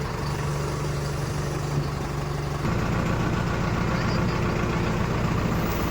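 Diesel engines of a backhoe loader and tractors running steadily at a work site, with an abrupt shift in the engine sound about halfway through.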